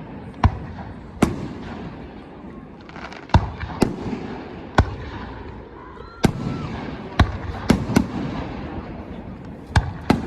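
Fireworks going off, about ten sharp bangs at irregular intervals, some in quick pairs, each with a short echo trailing after it.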